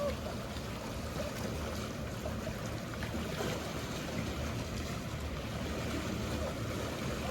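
Mediterranean seaside ambience: a steady wash of sea water under a low, continuous hum of boat engines.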